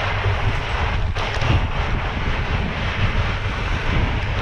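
Wind buffeting the microphone of a camera on a mountain bike ridden fast down a dirt trail: a steady rough rumble, with the tyres rolling over the gravelly surface underneath.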